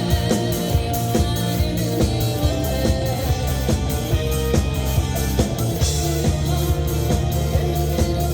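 Live rock band playing a song on drum kit, bass and electric guitar, with a steady beat.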